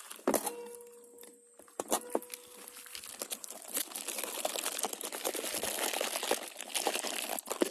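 Crinkling, rustling handling noise with scattered sharp clicks, becoming a dense continuous crackle about three and a half seconds in.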